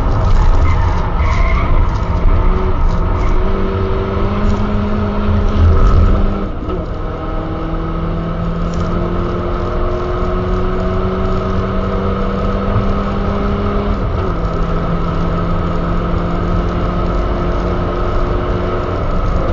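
Turbocharged Škoda Octavia engine with a Supersprint exhaust, heard from inside the cabin under hard acceleration. The engine note climbs slowly in pitch and drops at two upshifts, about a third and about two-thirds of the way in, with steady road and tyre noise underneath.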